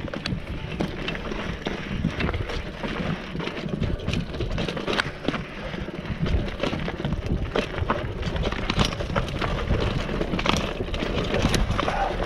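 Mountain bike rolling over a rough, rocky trail: tyre crunch and rumble with many sharp knocks and rattles from the bike, and wind on the microphone.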